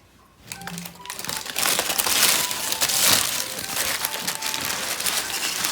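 American Bully dog crunching a deer bone: a dense run of cracking, crackling crunches that starts about half a second in.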